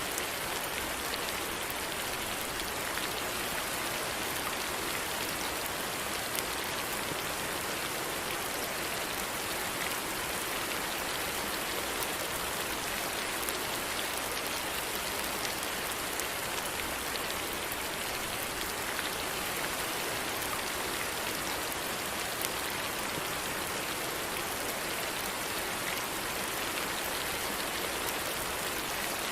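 Steady rain falling, an even hiss with small scattered drop ticks, level throughout.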